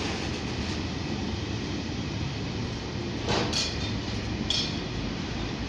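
Container freight train rolling past, its wagon wheels running steadily on the rails, with two brief sharper noises about three and a half and four and a half seconds in.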